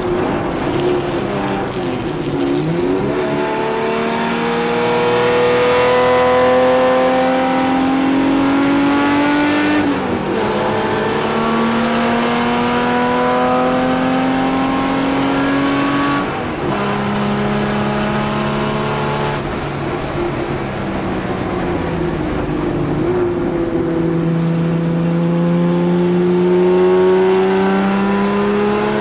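1963 Jaguar XK-E's straight-six racing engine from inside the cockpit, climbing in pitch under full throttle and dropping at each upshift, about ten and sixteen seconds in. About twenty seconds in it falls away as the driver lifts off, then it pulls hard and climbs again near the end.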